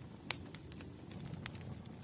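Bonfire burning: a few sharp crackles and pops from the wood over a low, steady rumble of flames.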